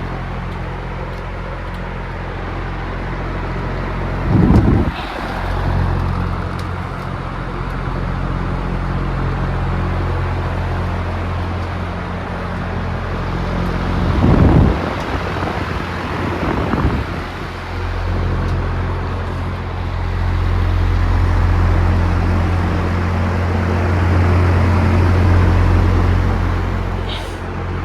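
Vintage W.T. Grant Ventilaire box fan running at medium speed: a steady electric-motor hum under the rush of air from the blades. A few short louder bumps break in, about four and a half seconds in and twice more around fourteen to seventeen seconds in.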